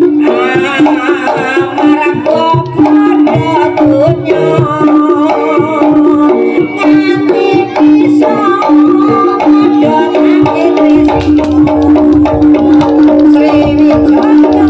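Live Javanese jaranan gamelan accompaniment. Kendang hand drums play a driving rhythm under a steady, repeatedly held ringing pitch and a wavering melody line above it.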